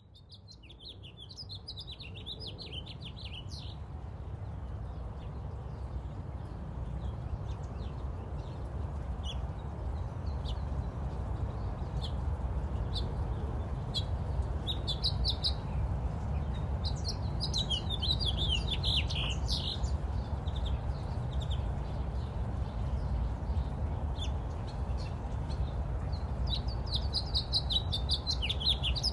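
Birds chirping in quick bursts, in several spells with pauses between, over a steady low rumble that fades in during the first few seconds.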